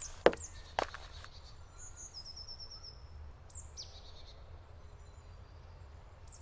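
Forest birds calling over a low steady rumble, with a short trill of rapidly repeated high notes about two seconds in and a few more high chirps later. Two sharp knocks sound in the first second.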